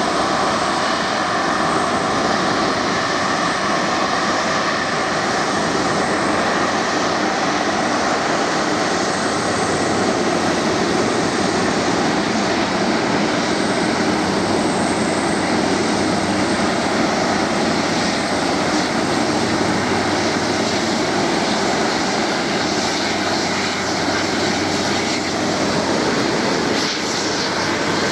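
Airbus A330 twin jet engines running at taxi power: a steady, even rush with a faint high whistle, holding level throughout.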